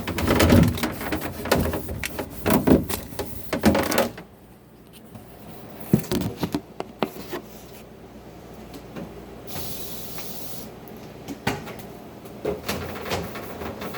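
Refrigerator drawer and containers being handled as food is put back in: a run of knocks and plastic clatter for about four seconds, then scattered lighter taps and clicks, with a brief hiss about ten seconds in.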